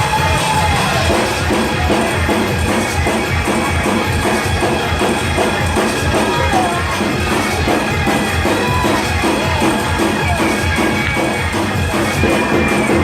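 Gospel praise-break music, with a drum kit driving a fast, steady beat.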